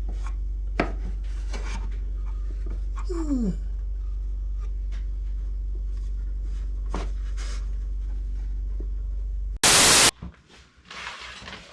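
A steady low electrical hum under a few light knocks and a short falling squeak. Near the end a brief, very loud burst of noise cuts in, and the hum stops with it.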